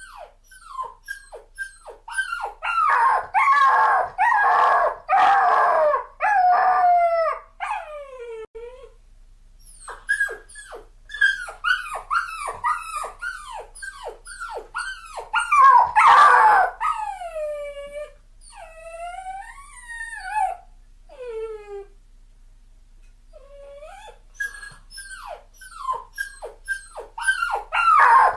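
Dog crying: quick runs of short, high whines that each fall in pitch, mixed with longer wavering howls, the crying easing off twice before starting up again.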